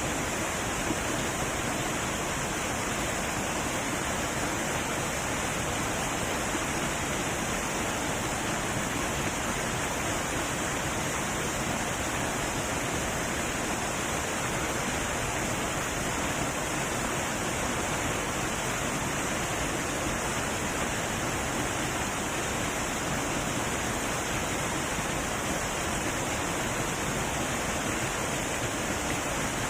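Heavy waterfall: a steady, unbroken rush of falling water.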